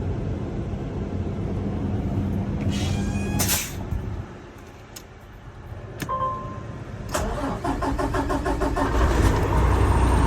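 Cummins diesel engine in a Kenworth truck being cranked by the starter from about 7 seconds in, with a rapid even rhythm, then catching and running with a deep rumble near the end. Before that there is a steady hum, a short hiss about three and a half seconds in, and a click with a brief beep near six seconds.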